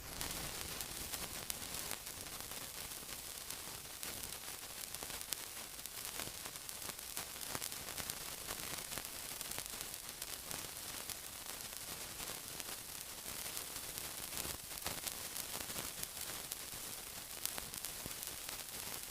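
Steady sizzling hiss with dense fine crackles. It starts abruptly and cuts off near the end.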